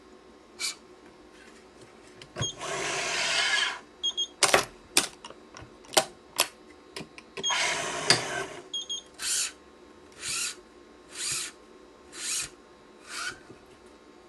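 Badminton string (Yonex Nanogy 99) sliding through the racket's strings as a cross string is woven and drawn through, twice in longer pulls, then in a run of short strokes about one a second near the end, with sharp clicks in between from the stringing machine and its clamps.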